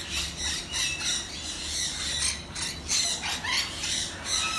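Macaws and other parrots squawking, many short calls in quick succession.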